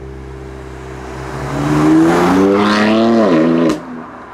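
BMW M4's twin-turbo straight-six accelerating as it drives past: the engine note rises for about two seconds, then falls quickly and ends with a single sharp crack near the end.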